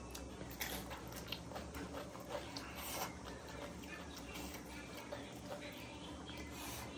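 Close-up mouth sounds of a person eating spicy panipuri: chewing with irregular small wet clicks and smacks. A low steady hum runs underneath.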